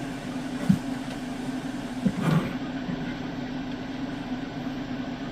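A steady mechanical hum, with a sharp knock about two-thirds of a second in and a second knock about two seconds in.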